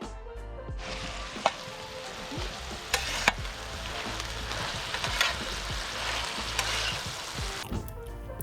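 Food sizzling as it fries in a hot pan and is stirred, with a few sharp clicks along the way. The sizzle starts about a second in and stops shortly before the end.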